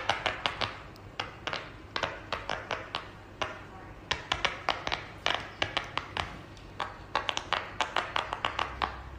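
Silicone push-pop fidget toy bubbles being pressed, making sharp popping clicks in quick, irregular runs with short pauses between them.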